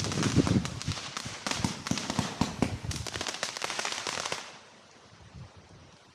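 Crackling firework giving off a dense, rapid run of small pops and crackles, which dies away about four and a half seconds in.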